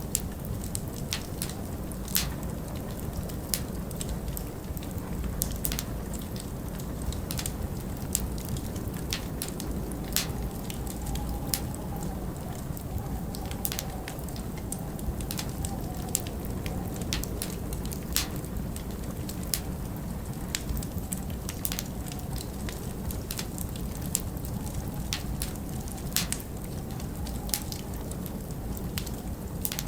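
Log fire in a stone fireplace crackling, with frequent irregular sharp pops over a steady low rush of winter wind that wavers faintly in pitch now and then.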